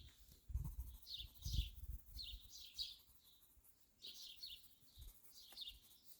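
Small birds chirping: many short, high chirps, some in quick pairs and runs, heard faintly, with a few soft low thumps beneath.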